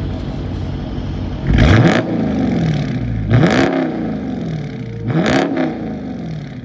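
2023 Dodge Charger R/T's 5.7 L Hemi V8 idling through its exhaust with the mid mufflers deleted, blipped three times: each rev rises quickly and falls back to idle, about two seconds apart.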